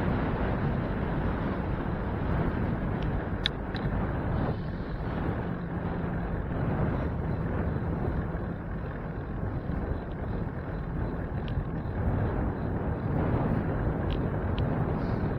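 Steady rushing wind and road noise on the microphone of a moving bicycle, with a few faint ticks.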